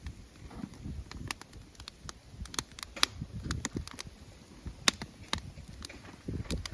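Wood campfire crackling, with irregular sharp pops over a low rumble.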